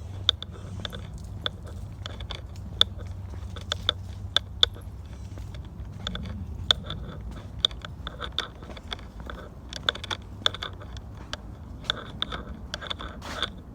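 Footsteps crunching on a woodland trail: many irregular sharp crunches and snaps underfoot, over a low steady rumble.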